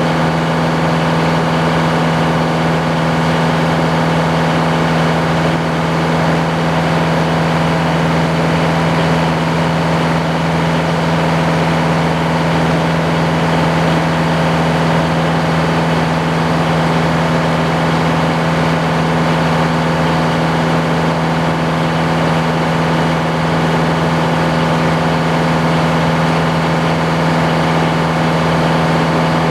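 Sawmill engine running at a steady speed, a constant loud drone that does not change pitch or level.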